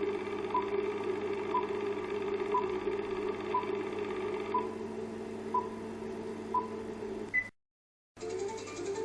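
A steady droning hum of several held tones with a short, sharp tick about once a second, like a clock. Near the end it cuts out completely for about half a second, and a different sound follows.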